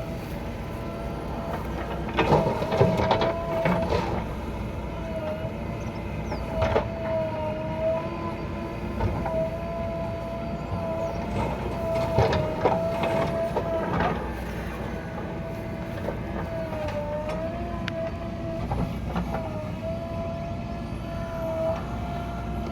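Heavy diesel machinery running steadily, with a constant whine that sags in pitch now and then and several metallic clanks and rattles.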